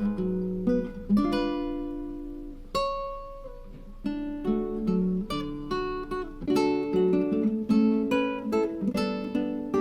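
Background music: acoustic guitar, picked and strummed chords, with a held chord a second in and a softer stretch about three seconds in.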